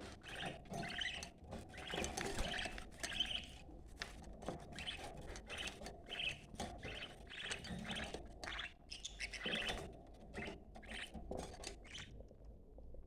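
Budgerigars, male and female, chattering and warbling in quick, busy chirps: the excited mating chatter of budgies. The chatter stops about a second before the end.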